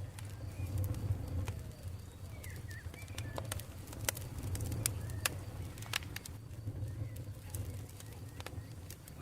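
Campfire crackling, with scattered sharp pops and snaps over a low, uneven rumble of burning wood. Faint short bird chirps come through in the background.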